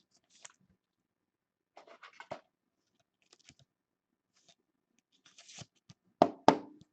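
Trading cards and their holders being handled on a table: soft scraping and rustling, then two sharp clicks near the end, the loudest sounds.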